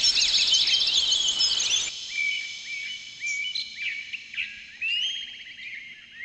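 Small songbirds chirping in rapid, dense trills over a background hiss. The hiss cuts off about two seconds in, leaving sparser, thinner chirps and short whistles.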